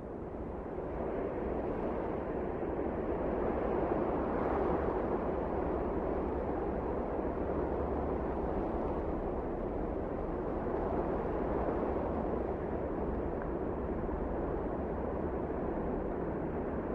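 Wind blowing in a steady rushing roar that swells over the first few seconds, then holds with slight gusting rises and falls.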